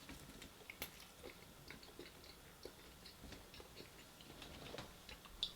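Faint chewing and small mouth clicks while eating, a scatter of soft ticks with a slightly louder click near the end.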